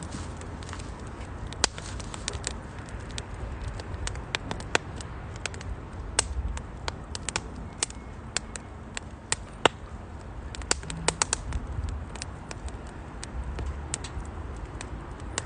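Firewood crackling and popping in a small steel wood-burning stove, with irregular sharp snaps over a low steady rumble.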